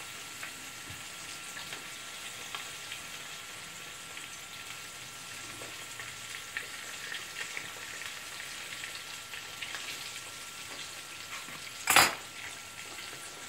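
Pieces of pejerrey fillet frying in oil in a frying pan, a steady sizzle with light crackles. A single sharp clink near the end.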